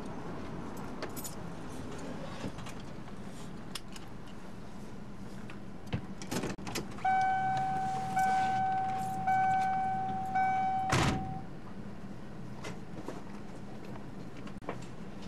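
Car's warning chime ringing four times, about a second each, over the vehicle's steady low hum, with clicks just before it and a sharp thump that cuts it off, as a car door is opened and shut.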